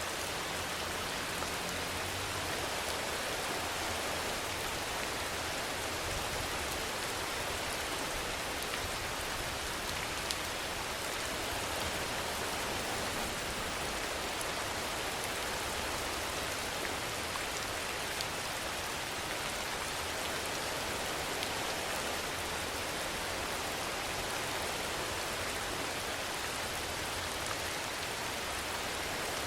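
Steady rainfall: an even hiss of rain with scattered individual drop ticks, unchanging in level.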